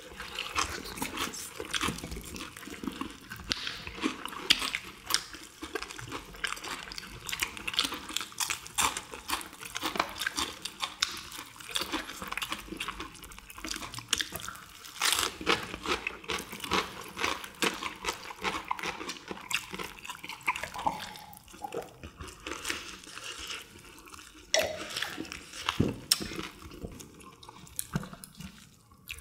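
Close-miked crunching and chewing of crisp, battered fried chicken with perilla leaves: a dense, irregular run of crackling bites and chewing from several eaters.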